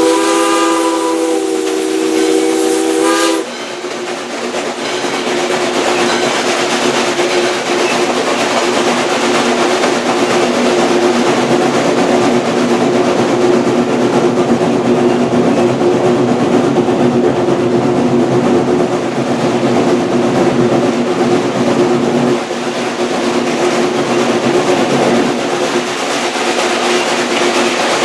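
Steam whistle of Valley Railroad Mikado #40 blowing one long chord for about three seconds, cutting off abruptly. After it comes the steady running noise of the moving steam train, with a constant hum under it.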